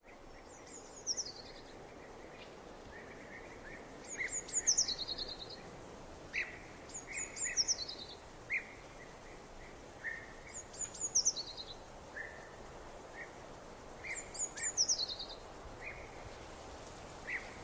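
A songbird singing a short, high, descending phrase about every three and a half seconds, with softer chirps between, over a steady background hiss.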